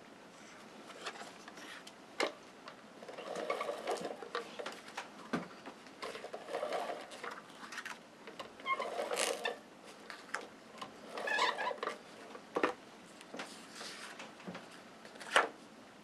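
Paper and photo prints handled on a craft table: irregular rustling and scraping, with scattered light taps and clicks, the sharpest one near the end.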